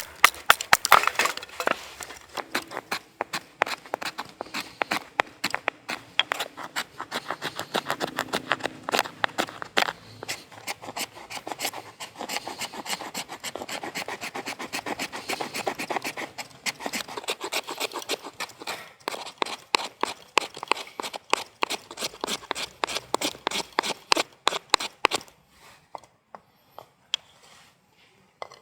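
Wood being worked with a blade in a steady run of rough scraping strokes, typical of preparing firewood. The strokes stop shortly before the end.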